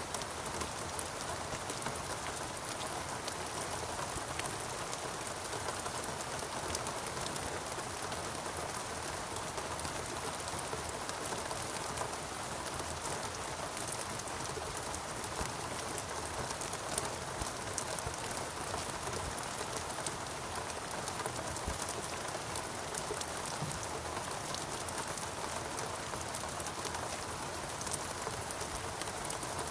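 Steady rain, with many individual nearby drops heard as small ticks over the even hiss of the downpour.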